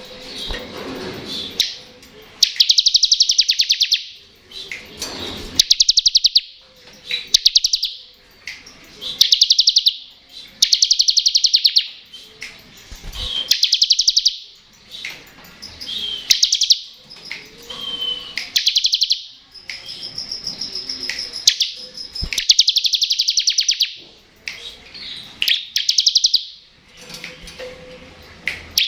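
Bar-winged prinia (ciblek) singing its 'ngebren' song: bursts of very fast, rattling high trills, each a second or so long, repeated every second or two.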